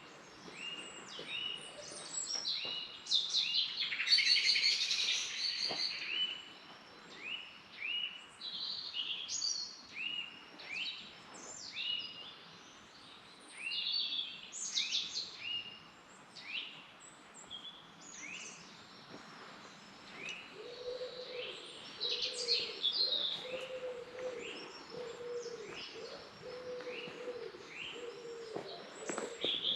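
Several wild birds singing in woodland: many short high chirps and trills, repeated over and over. From about two-thirds of the way through, a second bird joins with a low call repeated about once a second.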